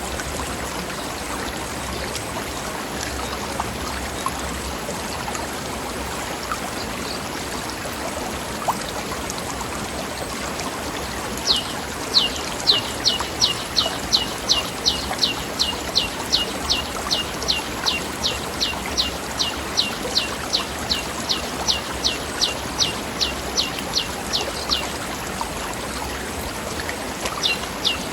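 Mountain stream rushing steadily over rocks. About eleven seconds in, a bird starts a long, even series of high, quick down-slurred notes, about three a second, which stops for a couple of seconds and starts again near the end.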